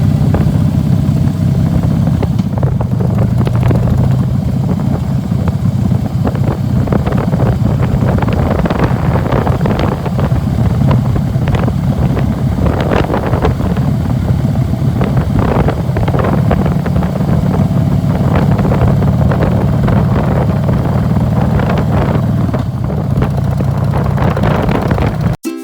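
Harley-Davidson V-twin motorcycle running at riding speed, a steady low rumble, with wind buffeting the microphone in irregular gusts. It cuts off abruptly just before the end.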